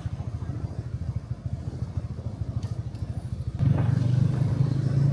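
Small motorbike running on the road, heard from the pillion seat: a fast low engine pulse that grows louder and steadier about three and a half seconds in, as if the bike is speeding up.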